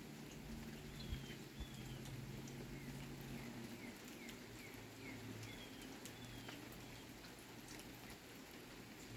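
Light rain falling, with scattered drips, while a bird gives a run of short, downward-sliding chirps over several seconds. Two soft thumps come about a second in.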